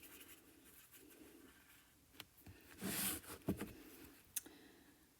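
Faint scraping and dabbing of a brush mixing acrylic paint on a palette, with a few light taps and a louder brush swish about three seconds in.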